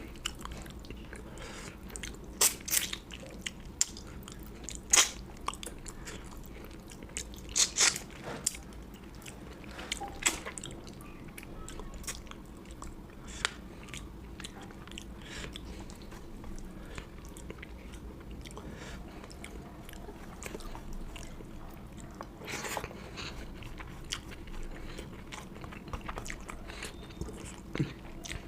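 Close-up chewing and biting of food, with irregular sharp crunchy clicks every few seconds over a steady low hum.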